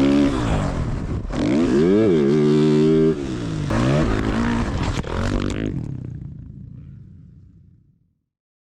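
Dirt bike engine revving, its pitch climbing and dropping several times, then fading away over the last few seconds.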